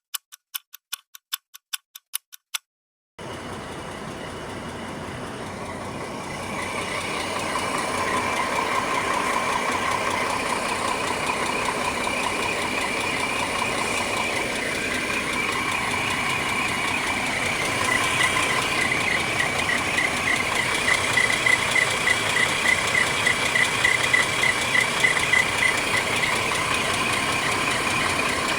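A string of evenly spaced clicks for about the first three seconds. Then the bus engine runs, getting louder about six seconds in and settling into a steady idle.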